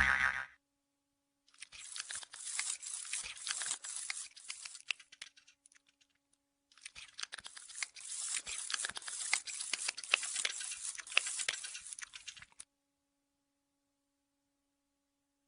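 Dense crackling, crunching noise in two stretches of about four and six seconds, with a short silence between them.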